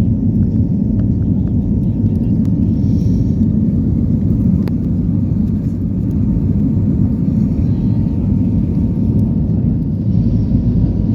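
Airbus A320neo cabin noise in flight: a steady low rumble of the engines and airflow past the fuselage, with a faint steady tone above it.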